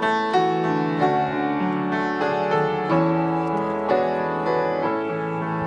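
Instrumental break in a Christmas worship song: piano playing a melody over held chords, with no singing.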